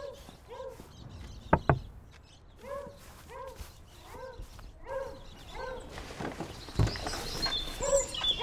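A dog barking repeatedly, about two barks a second, in short runs. Two sharp knocks come about a second and a half in, the loudest sounds, and a dull thump about seven seconds in.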